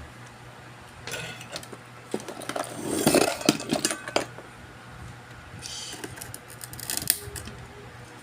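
Small metal tools and parts handled on a workbench: irregular clattering, rattling and sharp clicks in three short spells, the busiest about three seconds in, over a steady low hum.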